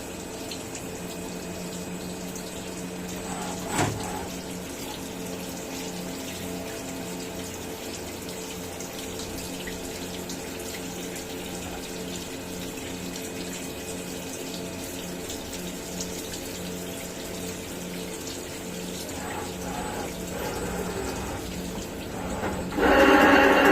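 CNC milling machine running with coolant flowing: a steady watery hiss over a steady machine hum, with a sharp click about four seconds in and a loud pitched blare near the end.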